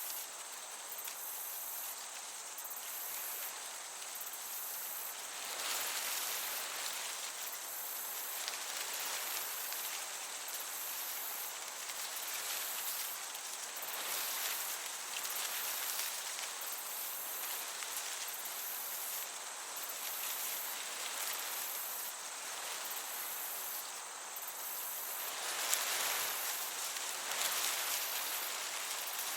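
Crickets chirping in a steady, high, pulsing rhythm over the hiss of a breeze, which swells now and then in gusts.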